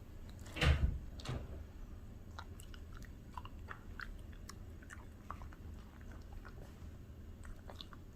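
Bichon Frise dog chewing and crunching a piece of fresh vegetable or fruit, in short scattered crunches, with one louder thump a little under a second in.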